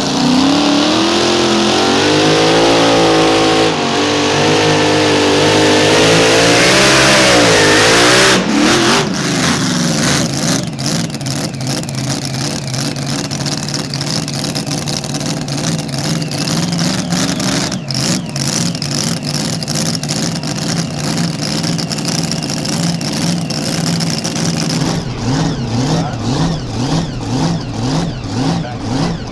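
A mini rod pulling tractor's engine running wide open under load, its pitch wavering and climbing, then cut off abruptly about eight seconds in. An engine keeps running afterwards at lower revs, its pitch rising and falling rhythmically.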